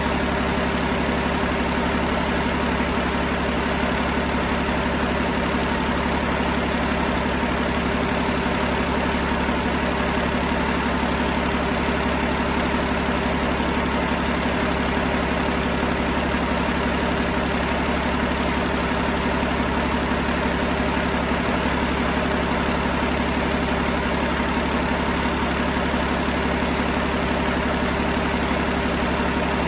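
Cummins ISL inline-six diesel engine idling steadily, with no change in speed.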